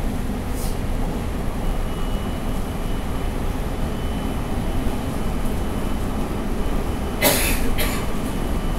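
JR Central 313 series 2600 subseries electric train running between stations, heard from inside the car: a steady low rumble of wheels and running gear with a faint high steady whine. A short hissing rush, the loudest sound, comes about seven seconds in.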